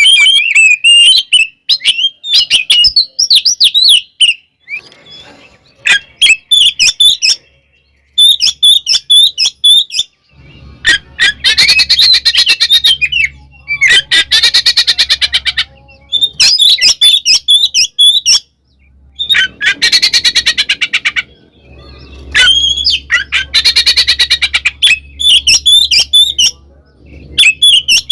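Oriental magpie-robin (kacer) singing loud, quick, varied whistled phrases. About four times these give way to a few seconds of fast harsh rattling chatter. This is an aggressive, fighting-style song.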